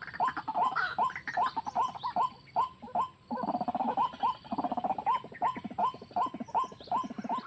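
White-breasted waterhen (ruak-ruak) calling: a fast series of repeated "kru-ak" notes, about three a second, with harsher croaking stretches about halfway through.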